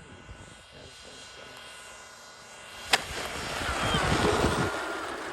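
Electric ducted-fan RC model jet (Freewing F-14 Tomcat) passing close: a sharp click about three seconds in, then a rush of fan noise with a faint whine that swells and fades.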